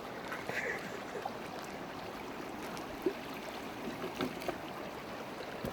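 Creek water rushing steadily, with a few faint short sounds over it.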